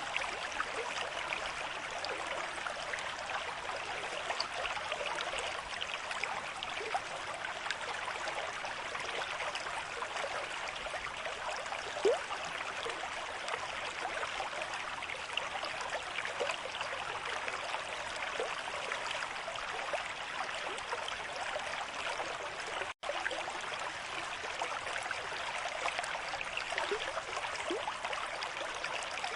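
River stream with moderate flow, a steady rushing and burbling of water. About twelve seconds in, one louder single plop rises above it. Near the end the sound cuts out for an instant.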